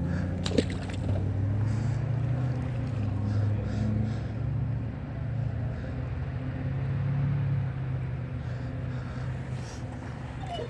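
Engine running at a distance as a low, steady drone that swells twice and fades near the end, with a single click about half a second in.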